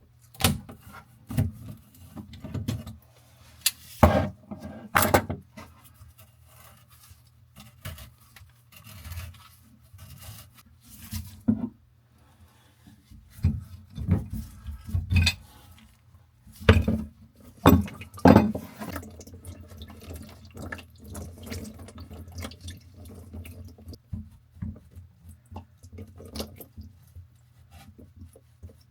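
Irregular metallic knocks, clanks and scraping of hand tools working on the old faucet's fittings and pipes under a bathroom sink, with a few sharper knocks standing out, over a steady low hum.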